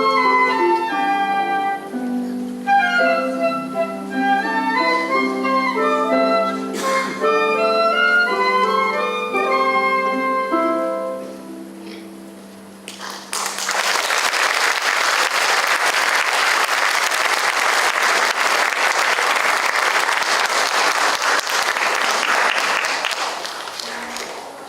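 A school concert band, woodwinds prominent, plays the closing bars of a piece and ends on a held chord that fades out about twelve seconds in. The audience then applauds steadily for about ten seconds until it dies away near the end.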